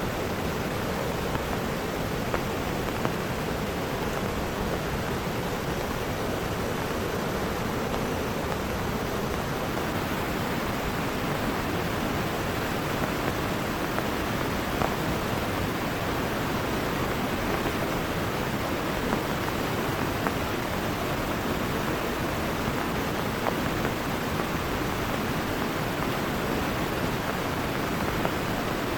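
Heavy rain together with rushing river water: a steady, even hiss with scattered small ticks of drops.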